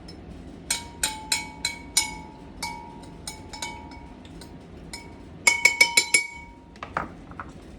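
A utensil clinking repeatedly against a ringing glass container while a small batch of sauce is worked to break it down, with a quick run of clinks about five and a half seconds in.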